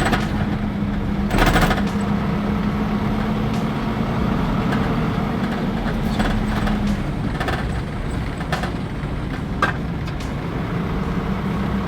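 Heavy truck engine running with road rumble and a steady hum. A few short knocks, the loudest about a second and a half in.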